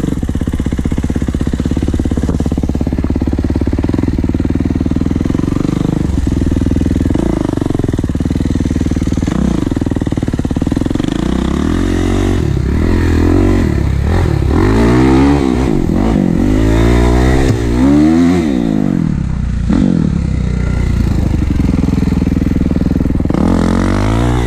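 Kawasaki KX450 dirt bike's four-stroke single-cylinder engine running while being ridden. Its pitch climbs and falls again and again as the throttle opens and closes and the gears change, with the strongest swings in the second half.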